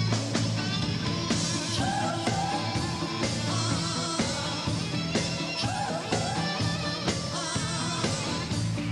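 Live pop-rock band playing with a steady beat, bass and guitar, with a wavering vocal or melody line over it.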